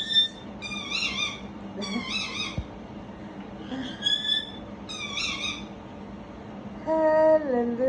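Pet parrot giving a run of short, high-pitched calls, five in the first five seconds or so, each a bending, whistly squeak. Near the end a lower, wavering voice starts.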